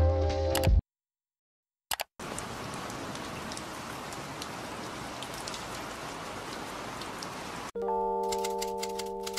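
Steady rain falling on wet pavement and splashing into puddles. Near the end it gives way to sustained music chords with a run of quick clicks.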